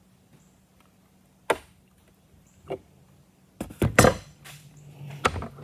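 Hammer taps on the threaded gland nut of a hydraulic steering cylinder, struck to free the thread without a spanner wrench. There are two single knocks, then a quicker, louder group of knocks, then one more near the end.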